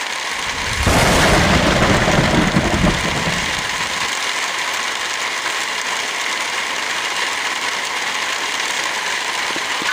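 Heavy rain falling as a steady hiss. About a second in, a louder low rumble swells over it for two or three seconds, then fades.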